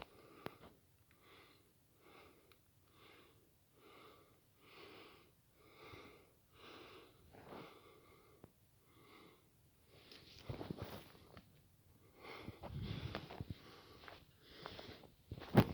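A person breathing hard and fast in short, regular breaths, about one a second, with a wheezy edge. From about ten seconds in come louder rustling sounds, which may be steps, and a sharp knock near the end is the loudest sound.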